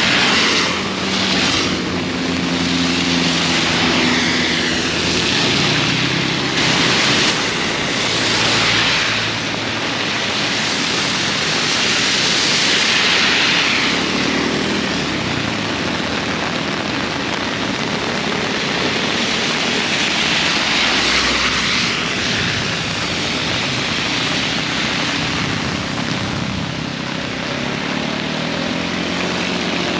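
Heavy rain pouring steadily, with motor vehicles passing several times on the wet road: a low engine hum that swells and fades, and tyre hiss on the water.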